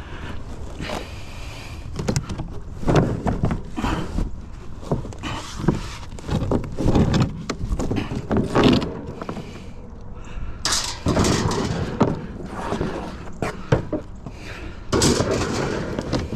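Metal wire shelving and other curbside scrap being handled and loaded: an irregular run of knocks, clanks and clatter, with louder rattling bursts about eleven and fifteen seconds in.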